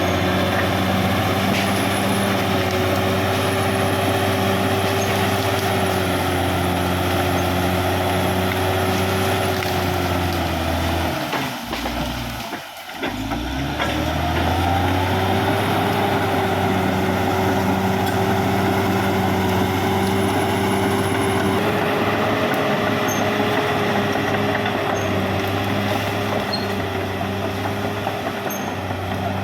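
Caterpillar D6R XL bulldozer's diesel engine running hard and steadily. About twelve seconds in, the revs drop sharply and the sound dips, then the engine picks back up to its steady working pitch.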